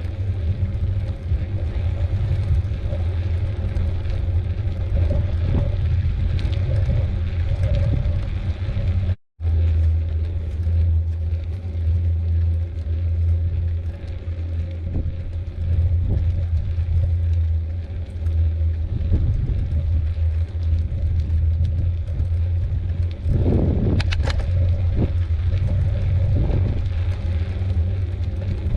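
Wind buffeting the microphone during a bicycle ride, a steady low rumble with a brief dropout about nine seconds in and a short rattling clatter near the end.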